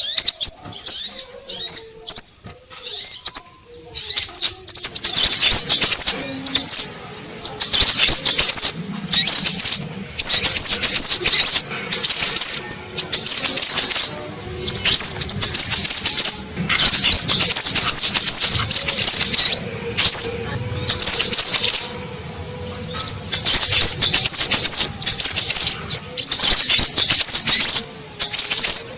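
Crimson sunbird (sepah raja) calls on a bird-lure recording: loud bursts of rapid, high, sweeping chirps, each lasting a second or two, with short gaps between them.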